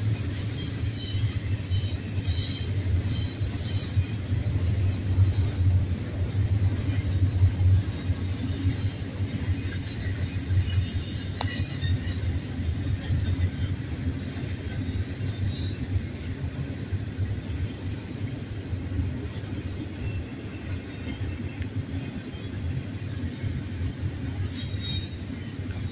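Double-stack intermodal well cars of a freight train rolling past, a steady low rumble of steel wheels on rail. Thin high-pitched wheel squeal comes and goes as the wheels take the curve.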